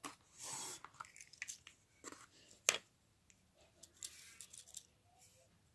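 Close-up handling noises: a few short rustles and sharp clicks, with one louder click about two and a half seconds in.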